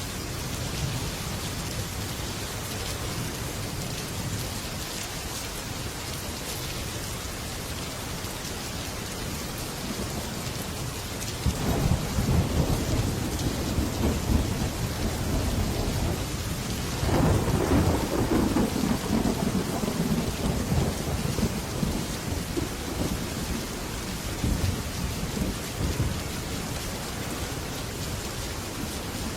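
Heavy rain falling steadily on a metal roof, with thunder rolling twice: once about twelve seconds in and again, louder, a few seconds later, each rumble fading out over several seconds.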